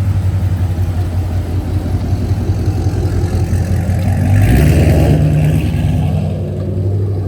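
Car engine idling, then revved up about four seconds in and held there for a couple of seconds before easing back.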